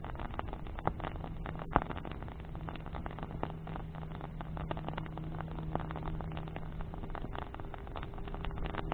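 Wood bonfire crackling, with irregular sharp pops of burning branches, the loudest a little under two seconds in. Under it runs a steady low engine hum.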